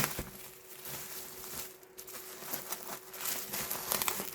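Light rustling and small clicks of packaging and stationery being handled, scattered irregularly over a faint steady hum.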